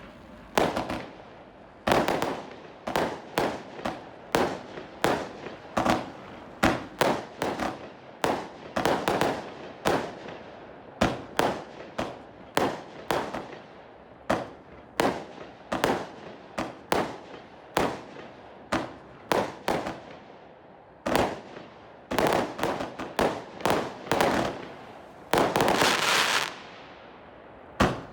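Empire State Show 161-shot compound firework cake firing a steady series of shots, roughly two a second, each a sharp bang with a short decaying tail. Near the end a denser burst lasts about a second.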